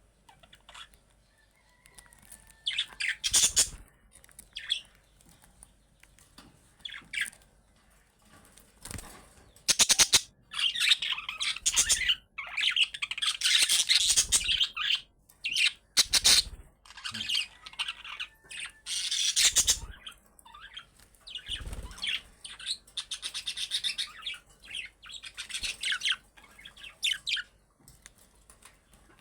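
Budgerigars chirping and chattering in irregular bursts, busiest in the middle stretch, with a few short sharp knocks among the calls.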